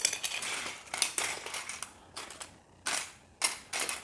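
Small plastic building-kit pieces clattering and rattling as a hand rummages through a pile of loose parts, in several short irregular bursts.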